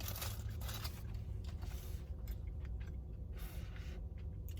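Close-miked chewing of a soft, cinnamon-sugared donut stick, with scattered small mouth clicks.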